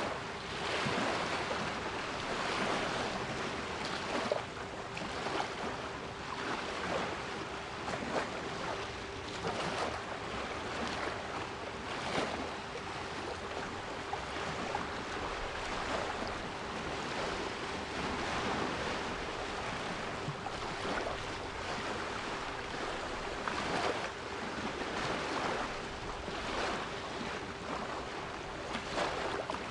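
Sea waves washing and breaking in a continuous hiss of surf, swelling irregularly every few seconds, with a steady 396 Hz pure tone running underneath.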